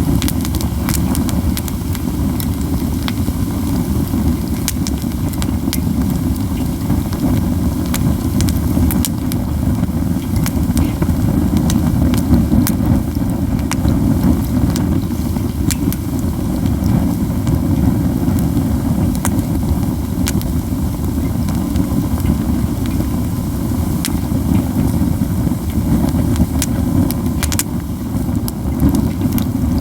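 Pine cones burning in a heaped fire, crackling and popping with frequent sharp snaps over a steady low rumble.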